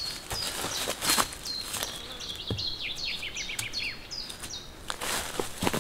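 A songbird singing a long run of quick notes, each sweeping downward, which stops about three-quarters of the way through. A few sharp knocks sound about a second in and again near the end.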